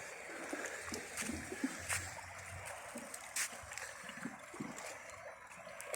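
Faint seawater lapping and trickling at the shoreline, with a few light clicks.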